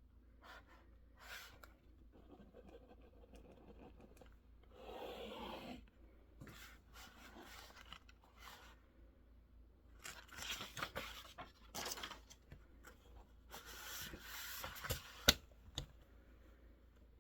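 Faint desk sounds while studying: irregular rustling and scraping strokes of paper and pen, with a single sharp click about fifteen seconds in.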